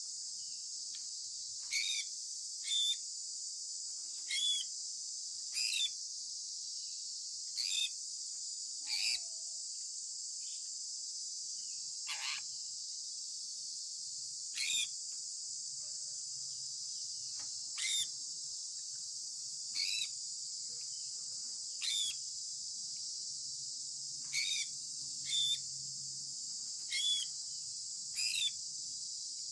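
Sun conure parrot giving short chirps every one to two seconds, each dropping in pitch, over a steady high-pitched hiss.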